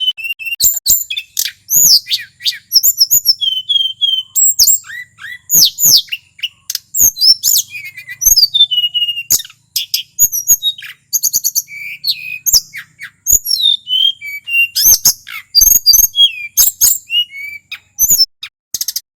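Male tledekan gunung singing a fast, unbroken song of high chirps, whistled slurs and short rattling trills in quick succession, the long rolling full-repertoire song that bird keepers use to stir caged birds into singing.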